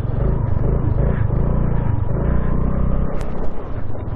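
Honda Navi's small single-cylinder engine running steadily under load as the bike pushes through snow, with a rough wind and road rumble on the helmet-mounted camera microphone. A single sharp click about three seconds in.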